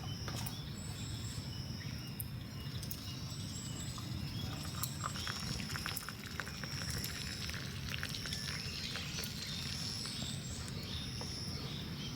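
Campfire ambience: a steady low rumble with scattered small crackles, under a continuous high-pitched insect trill.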